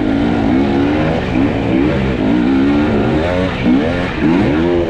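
Two-stroke enduro dirt bike engine (Husqvarna/KTM 250–300 TPI) revving hard and unevenly, its pitch rising and falling again and again as the throttle is worked on a steep technical climb.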